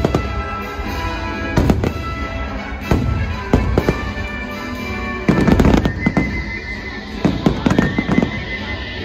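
Aerial fireworks bursting in a run of sharp bangs, with a dense cluster of bangs about five to six seconds in and another near the end, over the show's music.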